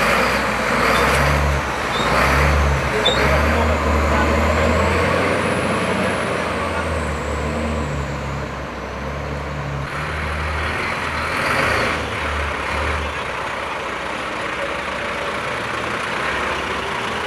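Garbage truck's diesel engine running under load with a heavy, uneven rumble that eases off about three-quarters of the way through, over a steady mechanical hiss; a faint high whine rises and falls in the middle.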